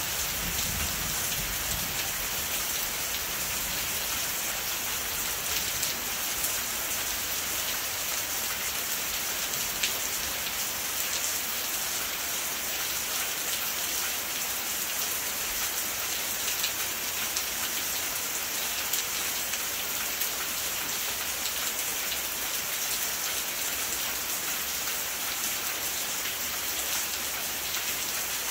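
Steady rain falling, with scattered sharper ticks of individual drops landing among the even hiss.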